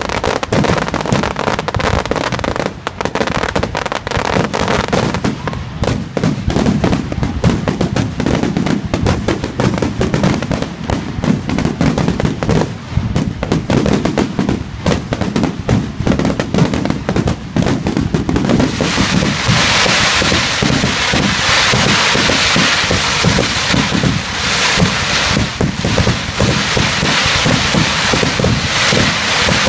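Aerial fireworks going off in quick succession, a dense run of bangs from bursting shells with crackling. About two-thirds of the way in, a brighter crackling grows louder over the bangs.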